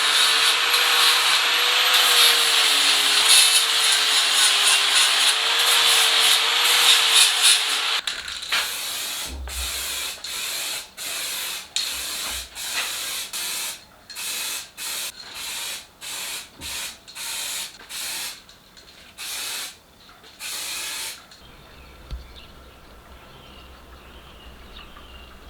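A handheld power tool runs continuously for about eight seconds, its motor pitch wavering with load, then stops. It is followed by a series of about a dozen short bursts of noise, each under a second, and then a quiet background.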